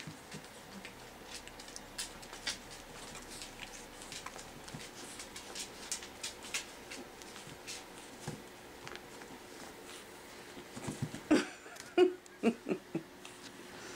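Five-week-old Pekingese puppies playing: faint scattered ticks and scuffles of paws and claws, then several short, loud puppy yips in quick succession near the end.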